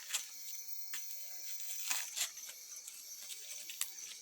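Wood bonfire crackling, with scattered sharp pops at irregular intervals. Insects chirp steadily behind it.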